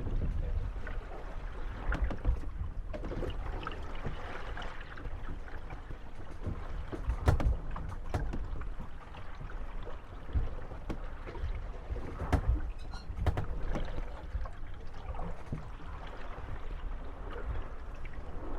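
Moored wooden gondolas rocking on the waves, creaking and knocking against each other and the landing, with scattered sharp knocks, the loudest about a third and two thirds of the way through, over a steady low rumble.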